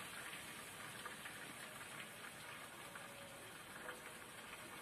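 Chips frying in hot oil in a pan: a faint, steady sizzle with light crackling.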